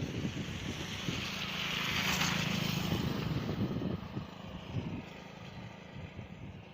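Road vehicle travelling: a steady engine hum with road and wind rumble, swelling to its loudest about two seconds in and easing off after about four seconds.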